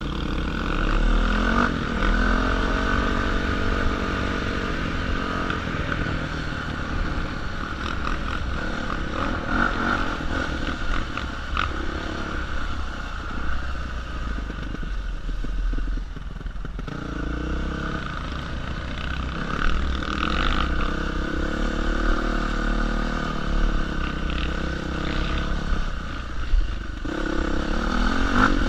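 Dirt bike engine revving up and down in repeated rising and falling surges, easing off briefly about halfway through, with knocks and rattles from the bike over the trail.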